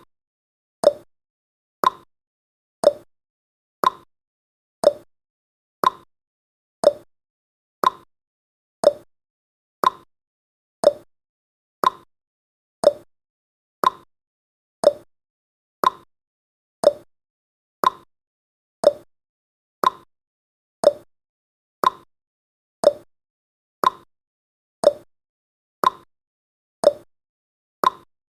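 Countdown timer's clock-tick sound effect, one short sharp tick each second, keeping a steady beat.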